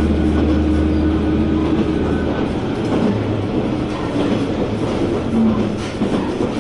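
Heard from inside the cabin: a JR West KiHa 120 diesel railcar running along the track, its engine drone and wheel-on-rail rumble steady. The low engine drone drops away about two seconds in, leaving the rumble of the wheels.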